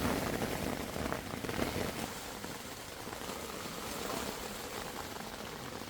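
Heavy rain falling steadily, a little louder for the first couple of seconds and then easing to an even hiss.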